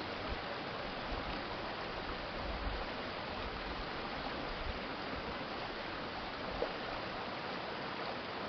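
An urban stream flowing steadily: an even, continuous rush of water, with a brief low rumble a few seconds in and a small click about two-thirds of the way through.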